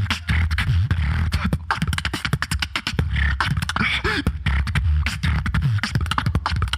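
Live solo beatboxing through a PA: rapid vocal kick, snare and hi-hat strikes over a steady, heavy sub-bass drone, with short vocal pitch sweeps mixed in.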